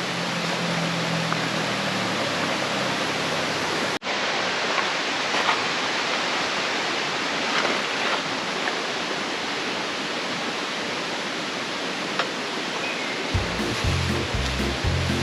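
Steady rush of flowing water, broken by a brief cut about four seconds in. Background music with deep bass notes comes in near the end.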